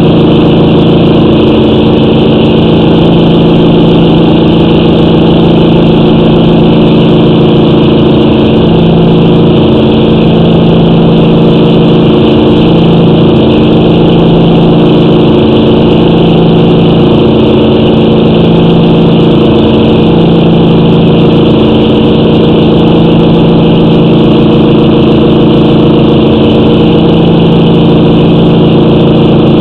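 Steady, loud mechanical drone with a slow, even pulsing, like an engine idling.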